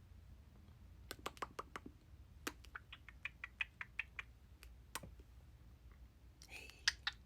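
Pet bird making a series of short, faint clicks and clipped chirps, a quick run about a second in, then a steadier string of about four or five a second, trailing off with a few single clicks.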